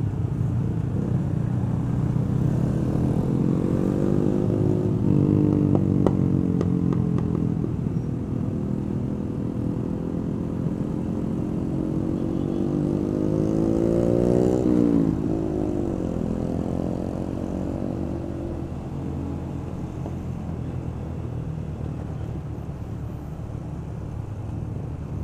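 Yamaha Vega underbone motorcycle's small single-cylinder four-stroke engine at low speed, heard from the rider's seat. The revs rise and fall gently, then climb for a few seconds and drop sharply a little past halfway.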